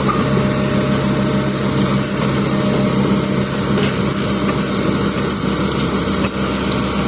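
Diesel engine of heavy construction machinery running steadily, with a constant low hum and light clicks and rattles over it.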